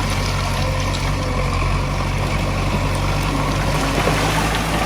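Heavy diesel engine of earth-moving machinery running steadily with a low, even drone, and a few faint knocks around three to four seconds in.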